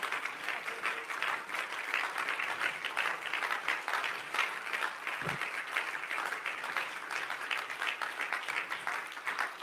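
A congregation applauding, a dense steady patter of many hands clapping in praise.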